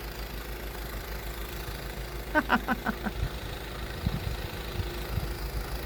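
Snowblower engine running steadily with a low rumble while clearing a driveway. A few short voice-like sounds come through briefly just past the middle.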